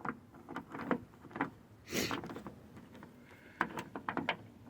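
Light clicks and small metallic knocks of door lock parts being handled and fitted into a car door, with a brief hissing rustle about two seconds in and a quick run of clicks near the end.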